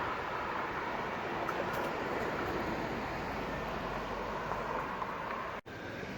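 Steady road traffic noise from passing vehicles on a busy street. It cuts out for an instant near the end.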